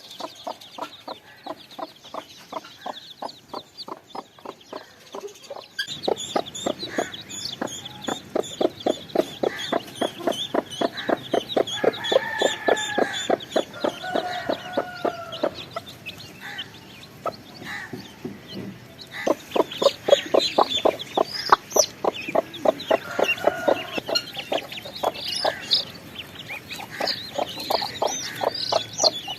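Chickens in an aviary clucking in rapid, continuous calls, growing louder about six seconds in, with a few longer drawn-out calls near the middle and high cheeping over the top.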